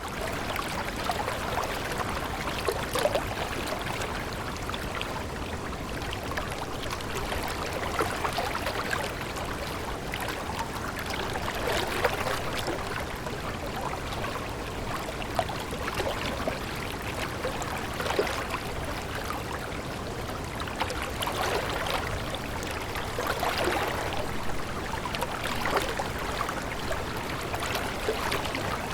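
Water of a stream flowing and trickling, steady and continuous.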